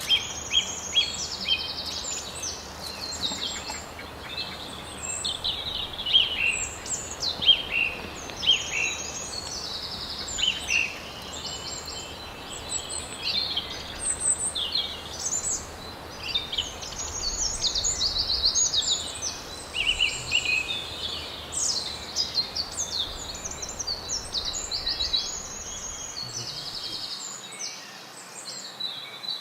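Small songbirds chirping and singing without a break: many short high chirps and quick trills, some overlapping, over a steady background hiss.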